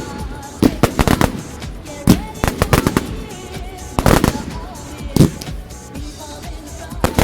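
Professional fireworks display: shells bursting in irregular clusters of sharp bangs and quick crackling reports, with music playing underneath.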